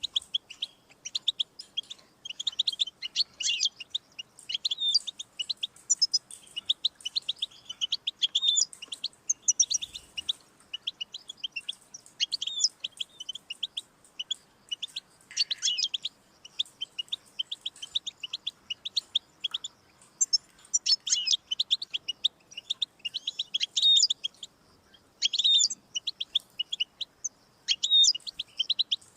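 European goldfinch singing: long runs of rapid, high twittering notes, with short pauses between phrases.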